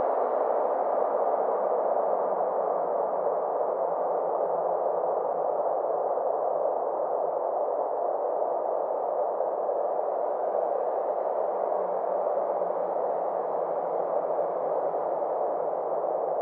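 Synthesized space ambience: a steady, airy noise drone whose brightness slowly dips and then rises again.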